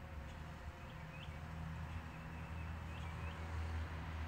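A few short bird chirps, about a second in and twice around three seconds in, over a steady low rumble of outdoor background noise.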